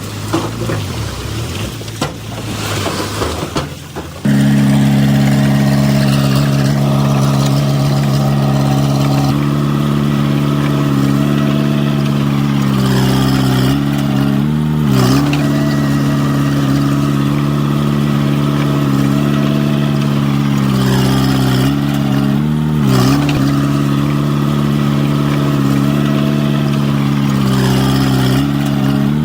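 Diesel engine of heavy earthmoving equipment running at a steady speed close by, getting much louder about four seconds in, with its pitch briefly dipping and recovering a few times as it takes load.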